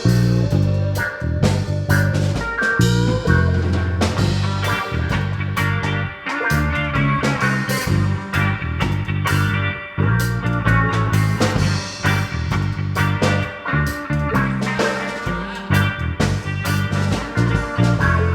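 A live rock/reggae band playing an instrumental passage: electric guitar, bass guitar and drum kit, with a bending lead guitar line near the start.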